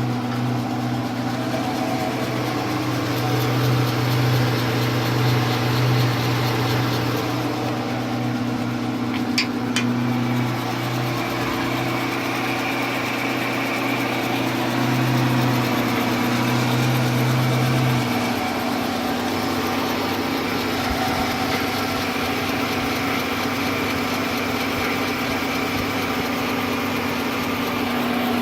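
C11MB metal lathe running steadily with a strange noise the owner cannot place: a steady hum of several held tones. The lowest tone drops away about two thirds of the way through, and there are a couple of sharp clicks about a third of the way in.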